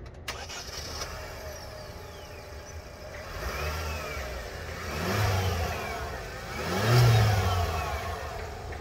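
JAC Sei7 Pro's 1.5-litre turbocharged four-cylinder engine revved three times with the car standing still, each rev rising and falling back, the third the loudest.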